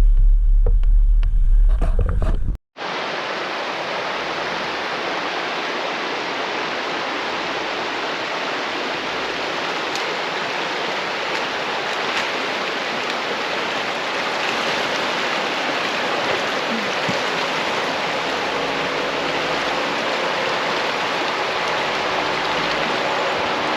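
A Jeep's engine runs with a low rumble for about two and a half seconds. After a sudden cut comes a steady rush of creek water flowing.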